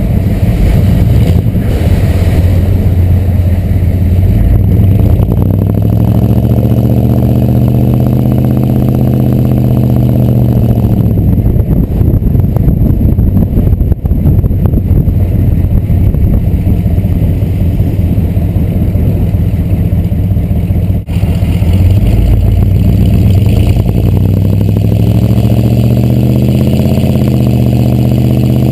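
6.2 L Detroit diesel V8 of a 1986 Chevrolet C30 dually, heard through its exhaust stacks as the truck drives. The engine pulls up in pitch, drops back around ten seconds in, runs steady, then pulls up again near the end.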